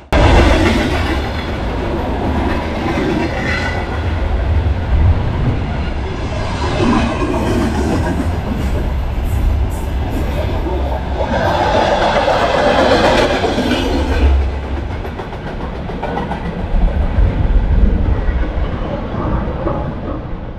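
Rumbling and rail clatter from aboard a moving suburban electric train.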